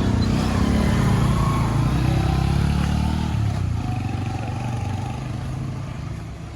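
A motor vehicle's engine running, loudest in the first half and fading away over the last few seconds.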